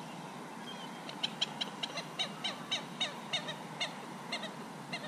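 A bird calling in a quick series of short, falling notes, about three to four a second, starting about a second in and spacing out toward the end.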